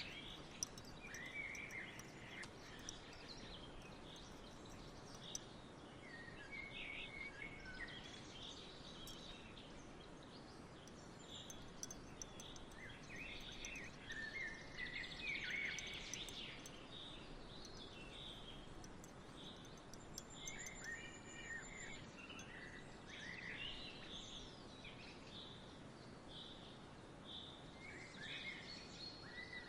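Songbirds chirping and trilling, many short calls scattered throughout, over a steady soft background hiss of outdoor ambience.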